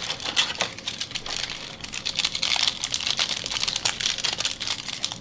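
Crinkling and rustling of a trading-card pack wrapper being torn open and handled, a dense run of small crackles and ticks.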